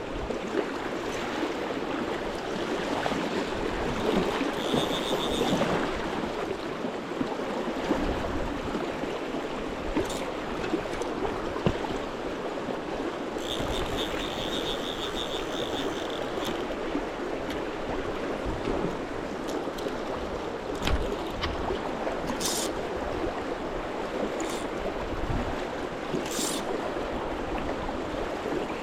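River current rushing steadily. A short high rattling comes twice, about five seconds in and again for a couple of seconds around fourteen seconds in, with a few sharp clicks near the end.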